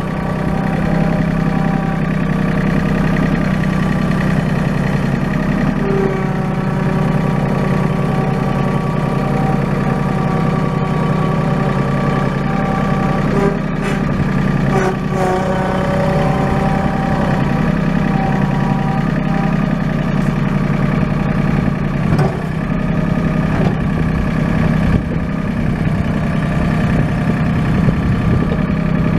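Mahindra 1626 HST tractor's three-cylinder diesel engine running steadily, with higher whining tones that shift in pitch several times and a few brief knocks.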